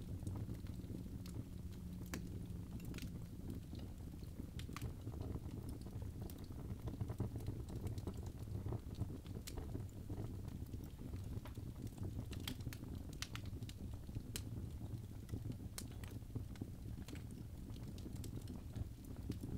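Birch logs burning in a fireplace: a steady low rumble of flames with scattered sharp crackles and pops.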